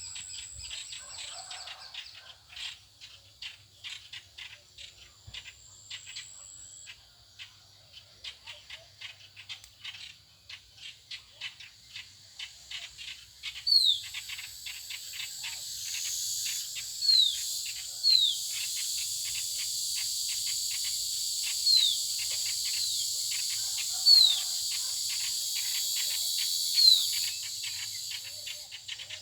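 Many small birds chirping rapidly in a busy chorus. About halfway through, a steady high insect buzz sets in and runs until near the end, and over it come several loud, sharp whistles that slide downward in pitch.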